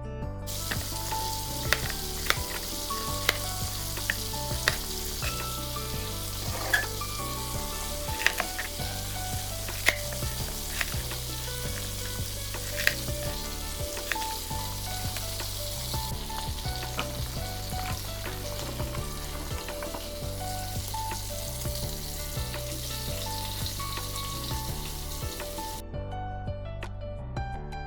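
Food sizzling in hot oil in a frying pan, with sharp clicks of a utensil stirring against the pan, most of them in the first half. The sizzling stops about two seconds before the end, leaving soft background music.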